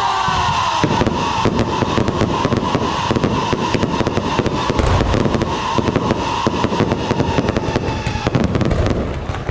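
Ground-launched fireworks crackling and popping in a rapid, dense stream, with deeper bangs from shells bursting overhead.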